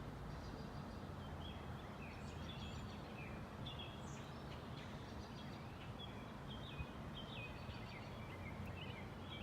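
Small birds chirping and calling in short notes throughout, over a steady low outdoor background hum.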